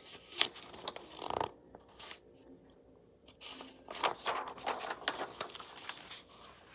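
Pages of a paper book being turned, with rustling and crinkling in a few short bursts, the main ones about a second in and again between about three and a half and five seconds in.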